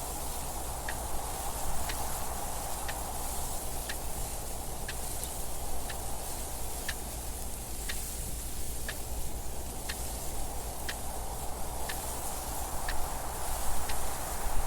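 Clock ticking evenly, about one tick a second, over a steady wind noise.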